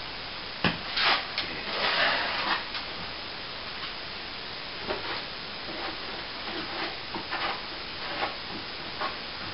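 A sharp knock, then a series of short, irregular scraping sounds, the longest about two seconds in, with smaller scrapes after.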